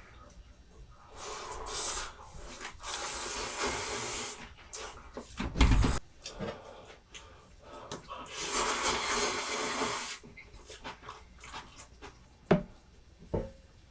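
Kitchen cooking sounds: two stretches of hissing that start and stop, a heavy thump about six seconds in, and two sharp clicks near the end.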